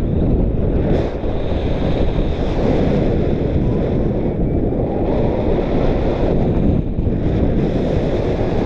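Strong wind buffeting the microphone: a loud, steady rushing noise, heaviest in the low end, with no let-up.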